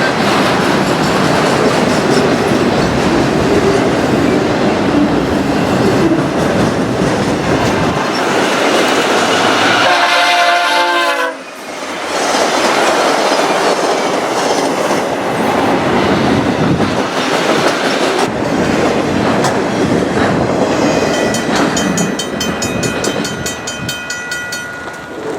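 A train passing close by, its wheels and cars making a loud, continuous rumble with clickety-clack over the rail joints. About ten seconds in, the train's horn sounds briefly, dropping in pitch as it passes, and the sound then cuts off abruptly before the rumble of a passing train resumes.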